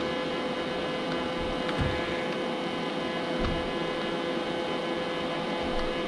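Robot vacuum cleaner running with a steady whirring hum, with two soft low thuds in the first half.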